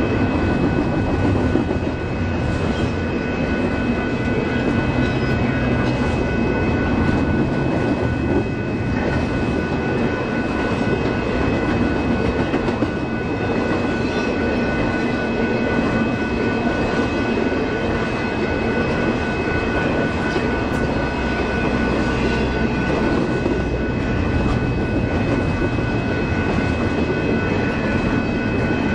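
Freight train of double-stack container cars rolling steadily past, a continuous heavy rumble of wheels on rail. Faint steady high-pitched ringing tones sit over the rumble.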